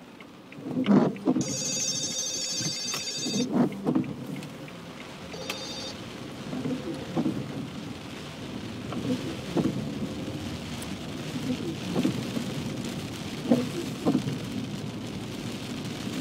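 Heavy rain on a moving car, heard from inside the car as a steady hiss with soft knocks every couple of seconds. A high electronic ringing tone sounds over the first few seconds, then stops.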